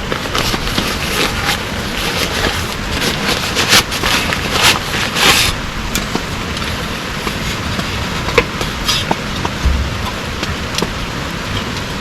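Heavy rain falling in a steady hiss, with scattered sharp taps of drops striking a surface and a few louder strikes.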